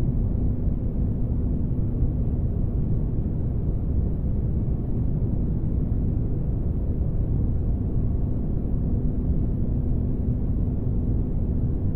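Spaceship ambience: a steady low rumbling drone of engine-like noise, deep and even, with a faint constant hum running through it.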